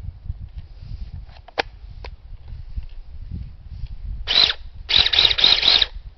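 A 6-inch mini chainsaw running in three short bursts near the end, the longest about a second and pulsing a few times a second.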